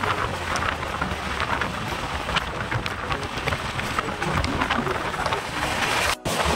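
Express passenger train with LHB coaches running at high speed, heard from an open coach door: a steady rush of wind and running noise, with many quick clicks and rattles from wheels and track. The sound briefly cuts out near the end.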